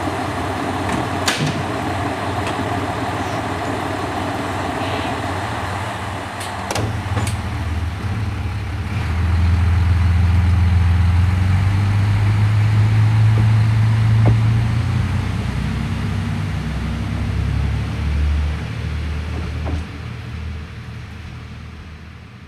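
KiHa 185 diesel railcar running at a station, with a couple of sharp clunks about six to seven seconds in. Its engine note then builds into a loud low hum as the train pulls away, and fades as it leaves.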